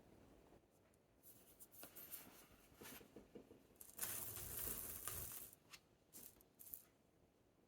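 Faint close-miked rustling and crackling from hands working succulents and potting material: a run of short crackles, then one longer, louder tearing scrape about four seconds in, then a few more short crackles.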